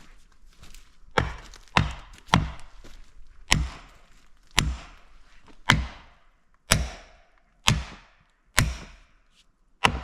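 A heavy 5-pound felling axe striking the wood of a fir tree, about ten hard blows roughly a second apart, each with a short ringing tail.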